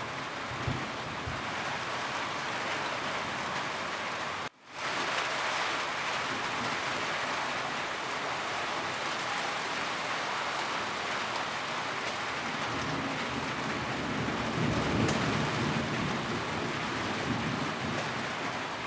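Steady rain on a roof, hissing evenly. It cuts out abruptly for a split second about four and a half seconds in, then resumes. A low rumble swells up in the latter half.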